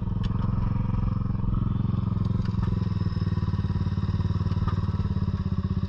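Dirt bike engine running steadily at low revs, an even fast pulsing with no revving up or down.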